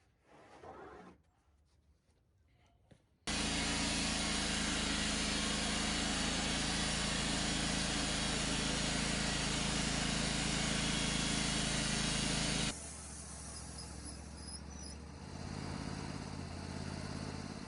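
An engine running steadily at a constant speed. It starts suddenly a few seconds in, then drops abruptly to a quieter, lower run for the rest of the time.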